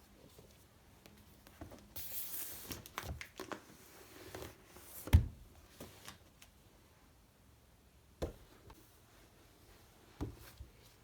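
Quiet handling sounds in a small room: rustling and crinkling for a few seconds, then a single sharp knock, and a couple of soft clicks near the end.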